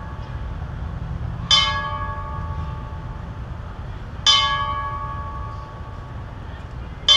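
A memorial bell tolling slowly: three single strikes about 2.7 seconds apart, each ringing out and fading, the third near the end, over a steady low rumble. It is rung once for each Nevada service member killed in combat.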